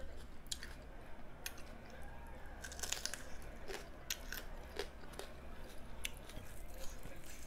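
A person chewing and biting food, with irregular crunches and mouth clicks that bunch together about three seconds in.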